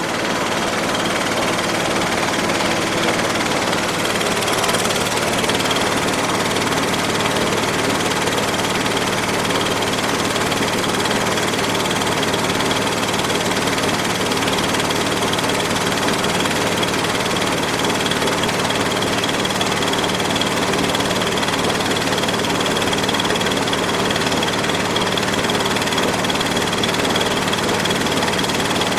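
Diesel engine of a small pellet mill running steadily at constant speed, with a thin high whine held over the engine noise.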